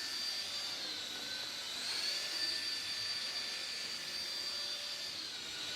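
Pink Sky Viper toy helicopter flying, its small electric rotor motors giving a steady high whine. The pitch sags a little about a second in, then picks up again.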